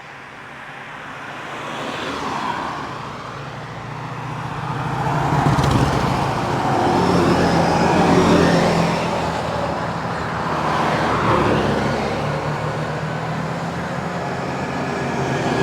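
Large trucks driving past one after another, their engines building up as the first one approaches and then swelling and fading several times as more go by.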